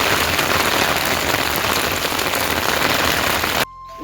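Heavy rain falling steadily in a loud, even hiss, which cuts off suddenly near the end.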